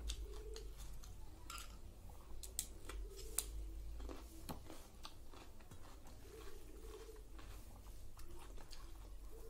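Close-up chewing and crunching of raw cucumber, with several crisp bites in the first half and softer chewing after.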